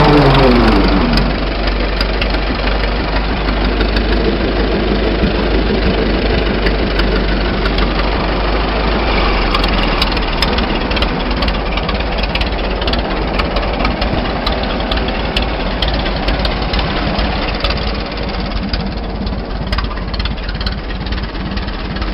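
1926 Fordson Model F tractor's four-cylinder engine running, its speed dropping in the first second, then running on steadily, a little quieter near the end.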